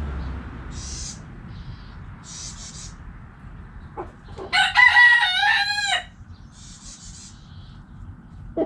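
A rooster crowing once, a loud call of about a second and a half midway, its pitch dropping at the end. Fainter short calls from the flock come before and after it.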